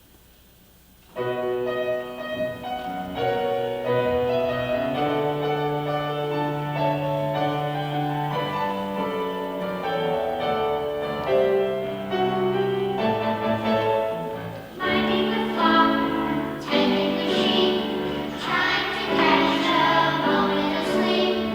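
After a brief hush, music starts about a second in: a choir singing with accompaniment, growing fuller about two-thirds of the way through.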